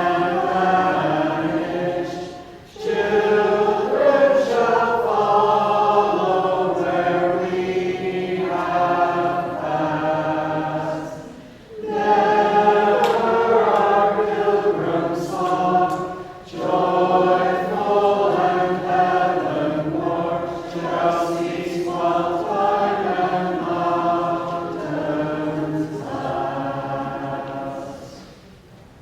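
A small vocal group singing together, in sung phrases with short breaks about 3, 12 and 16 seconds in; the singing ends near the end.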